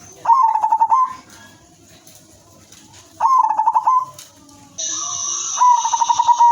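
Zebra dove (perkutut), a silver hen, giving its rapid staccato coo in three phrases: two short ones about three seconds apart, then a longer one starting near the end. A steady high hiss comes in shortly before the last phrase.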